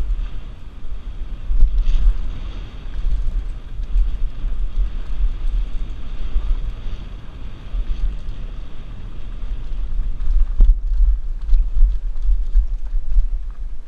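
Wind buffeting a helmet-mounted action camera's microphone during a downhill mountain bike run, with the bike's tyres and frame rattling over the dirt trail. There is a single sharp knock about ten and a half seconds in.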